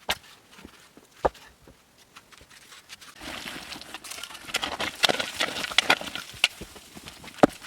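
Sharp knocks at the start, about a second in and near the end, with a few seconds of scraping and rustling full of small clicks in the middle.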